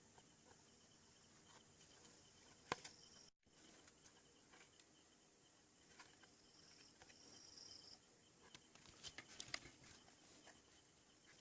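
Near silence with faint background hiss, broken by a sharp click near the start and a quick run of small clicks and taps near the end.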